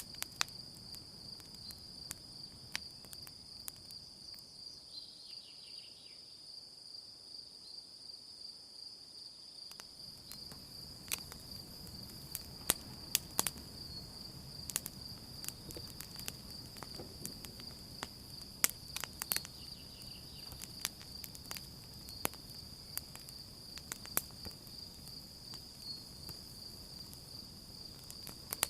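Campfire crackling, with scattered sharp pops over a low rush, and a steady high chorus of crickets chirping throughout. About four seconds in, the low rush drops away for some six seconds while the crickets carry on.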